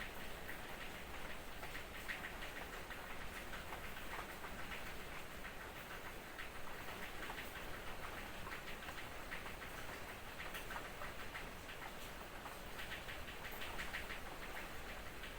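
Light drizzle pattering steadily, a dense scatter of small drop ticks over a soft hiss.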